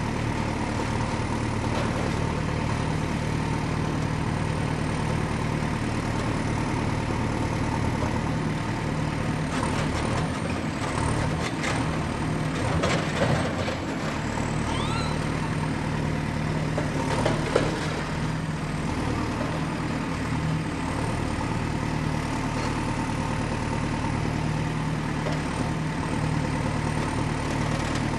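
Excavator's diesel engine running steadily at a constant pitch, with a few short knocks and scrapes from the machine at work, the loudest about thirteen and seventeen seconds in.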